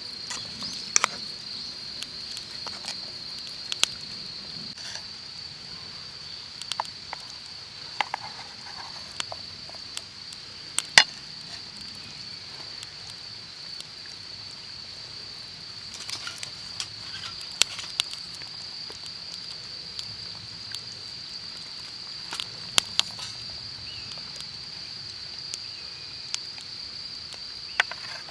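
A steady, continuous high-pitched trilling from insects, with scattered sharp clicks and pops over it, the loudest about eleven seconds in.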